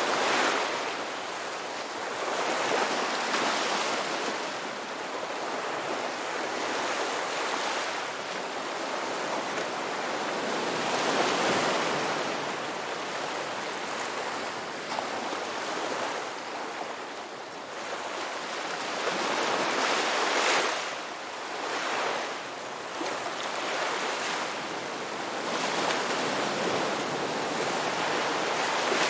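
Ocean waves breaking on a rocky beach, a steady wash of surf that swells and fades as each wave comes in, several times over.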